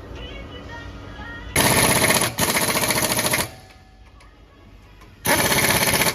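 Pneumatic impact wrench firing in short bursts of rapid hammering, about a second each: two nearly back to back, then a pause, then another near the end.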